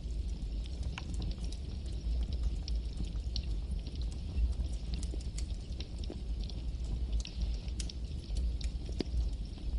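Campfire burning: a steady low rumble and hiss of flames, broken by irregular sharp crackles and pops of burning wood.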